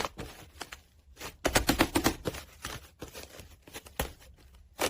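Slime being pressed and squished by hand, giving irregular wet clicks and crackles, busiest about a second and a half in.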